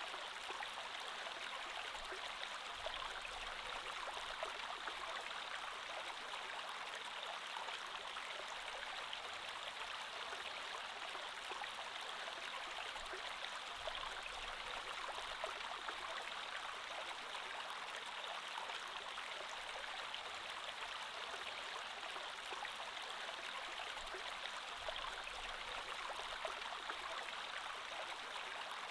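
Creek water flowing steadily over stones, an even rushing babble without breaks.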